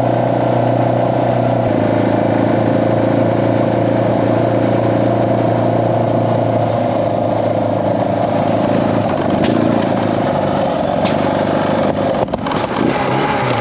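Suzuki DR650 single-cylinder engine running steadily on the move, with a few sharp pops near the end and an unsteady, faltering note at the very end. The pops are backfiring, which the rider feels comes from the engine not getting enough fuel.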